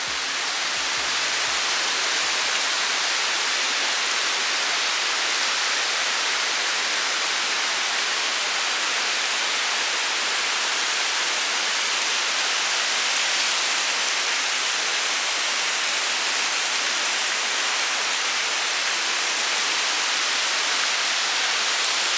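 Steady, even rushing noise with no rhythm or pitch, strongest in the upper range, like a waterfall. The last low notes of the music die away in the first couple of seconds.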